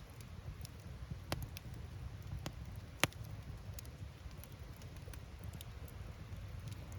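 Wood fire crackling: burning firewood pops with scattered sharp cracks, the loudest about three seconds in, over a low steady rumble.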